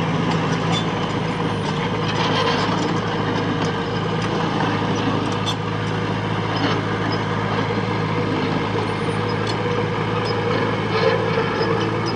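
Diesel engine of heavy machinery running steadily at a constant pitch, with scattered light metallic clinks and knocks.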